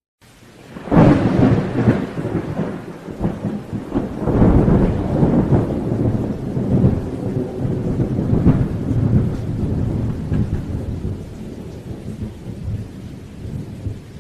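Thunder rolling in a long, low rumble that swells about a second in and again after about four seconds, then slowly dies away, over steady rain.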